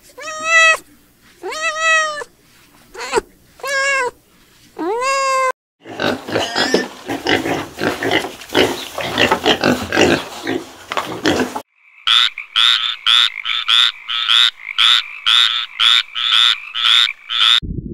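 Three animal sounds in turn. First, kittens meowing, about five separate meows. Then piglets squealing and grunting in a dense jumble for about six seconds, and finally a frog croaking in a regular series of about two croaks a second.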